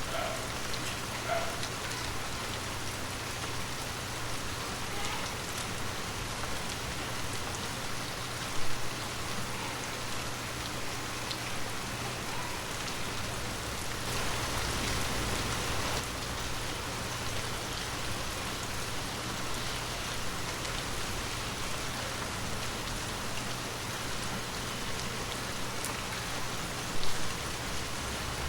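Heavy rain falling steadily, a dense patter of drops hitting surfaces, with two brief louder hits, about nine seconds in and near the end.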